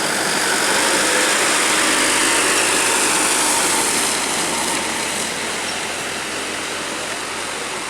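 A road vehicle passing close by: engine and tyre noise swelling about a second in, then slowly fading away.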